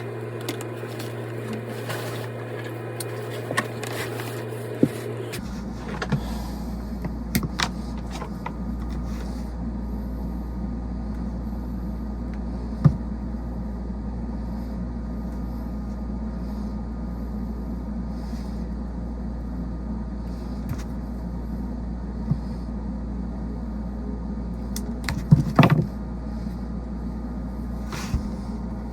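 HVAC equipment running with a steady machine hum. About five seconds in the sound shifts to a deeper, stronger rumble, as if a unit has switched on or changed speed. A few scattered clicks and knocks, with a louder cluster of knocks near the end.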